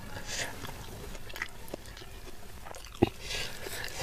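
A person chewing fried tilapia with the mouth close to the microphone, with wet smacking and small clicks, and a single sharp knock about three seconds in.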